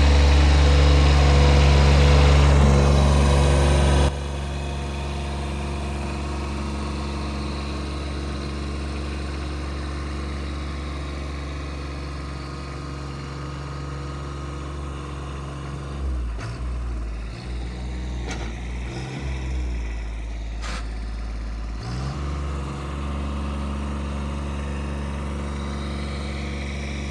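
A vehicle engine running steadily at idle. It drops abruptly to a quieter steady hum about four seconds in, with small changes in the hum near the middle.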